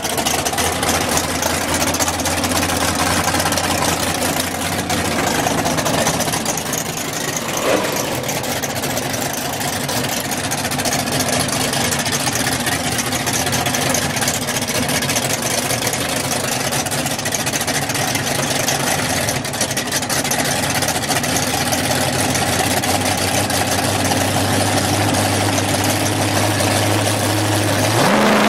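Chevrolet Nova drag car's engine idling at the starting line, a steady low rumble with track and crowd noise around it. In the last few seconds the note rises slightly as the car is staged for launch.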